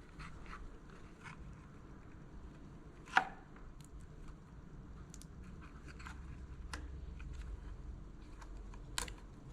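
Scattered light clicks and taps of a plastic zip tie and sensor wiring being handled and fastened, with one sharper click about three seconds in and another near the end.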